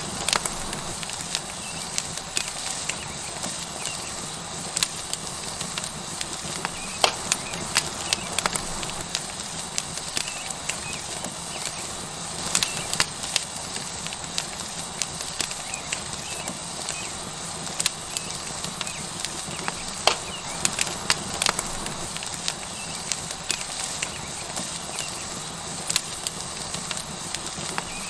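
Tomahawk steak sizzling on a hot rock over a wood fire: a steady hiss with frequent, irregular sharp crackles and pops.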